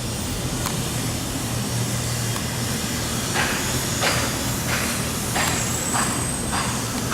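Electric train rumbling along the track with a low hum. From about three seconds in, its wheels click over the rail joints in a steady rhythm of roughly one click every 0.6 s.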